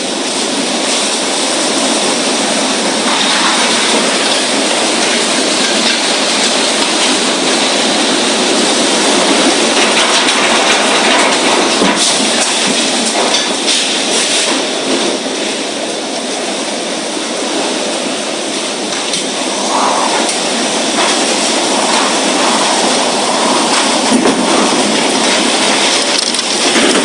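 Heavy rain and strong storm wind rushing steadily and loudly.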